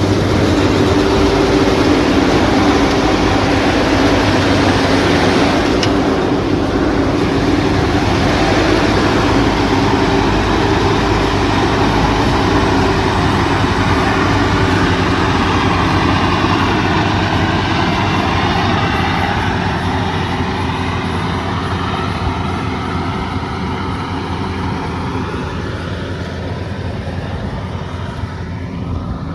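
Rice combine harvester running steadily, its engine and machinery droning, growing gradually quieter over the second half.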